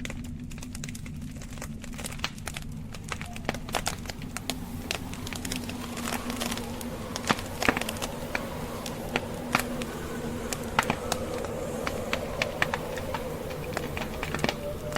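Wood logs burning in a fireplace, crackling with many small, irregular pops that grow denser and louder about halfway through. Under them runs a steady low rumble of blizzard wind.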